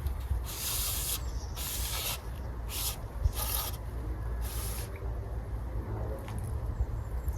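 Five short rustling, brushing hisses, each about half a second long and spread over the first five seconds, over a steady low rumble of wind on the microphone.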